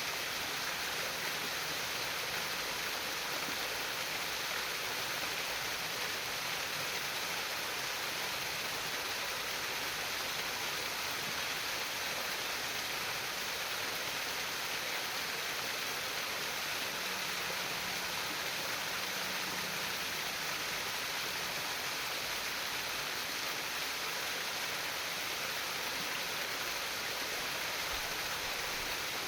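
Steady trickling and babbling of a small stream of flowing water, an unbroken rushing hiss with no pauses.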